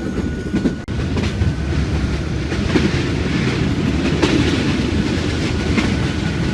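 Vietnamese passenger sleeper train running along the track: a steady low rumble of the carriage with irregular clacks from the wheels over the rails.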